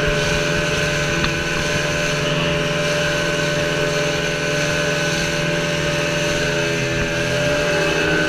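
Motorboat engine running steadily under way, its note shifting slightly near the end.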